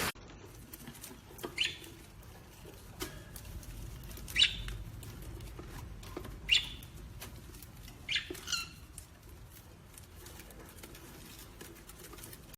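Parrot giving about five short, sharp chirps a couple of seconds apart, with faint clicks and rustling between them.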